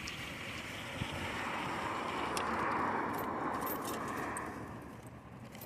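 A car passing on a nearby road: its tyre and road noise swells to a peak about halfway through, then fades away. A few light clicks are heard along with it.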